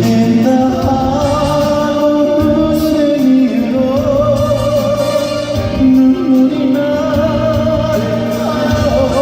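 Live trot ballad performance: a male voice sings long, wavering notes with heavy vibrato over band accompaniment.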